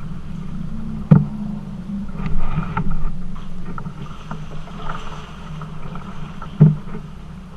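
Kayak being paddled on a river, with paddle and water noise. There are two sharp knocks, about a second in and again near the end, and a few lighter clicks between them.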